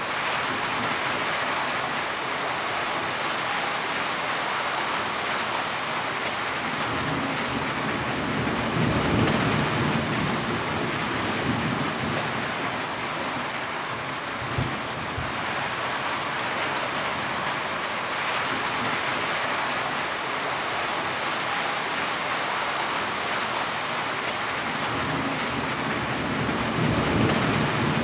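Heavy rain falling in a steady, dense hiss. Low rumbles of thunder swell up about nine seconds in and again near the end, and there is a short low thump midway.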